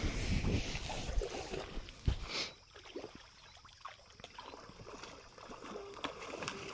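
Lake water sloshing and splashing, loudest over the first couple of seconds, then dying down to faint lapping.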